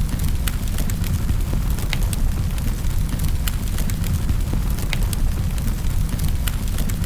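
Wood fire crackling in a fireplace: scattered sharp pops and snaps, several a second, over a steady low rumble of the flames.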